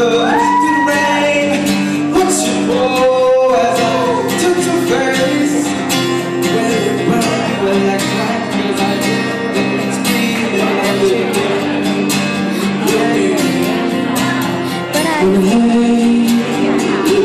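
Acoustic guitar strummed steadily in a live song accompaniment. A voice sings drawn-out, bending notes over it in the first few seconds, then the guitar carries on alone.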